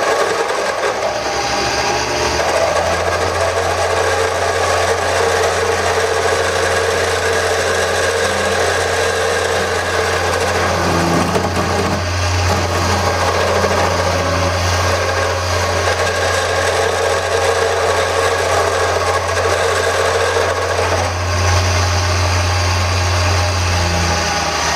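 Wood lathe running while a turning tool takes smoothing cuts along a spinning wooden handle blank, a steady scraping of the chisel on the wood over the motor. A deep steady hum joins in a couple of seconds in and drops away near the end.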